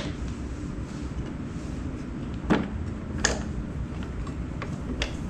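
Handling noise from assembling an electric dirt bike: a few sharp clicks and knocks of tools and parts over a low steady background rumble. The loudest knock comes about two and a half seconds in.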